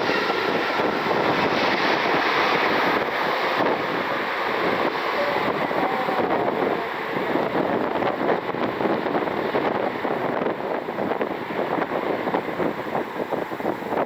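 Gusty storm wind buffeting the microphone: a loud noisy rush that grows more uneven and fluttering in the second half.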